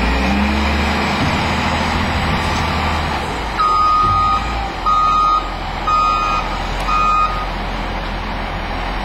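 A vehicle's reversing alarm beeping four times, about once a second, each beep a single steady tone. Underneath runs a steady rumble of engine and outdoor noise.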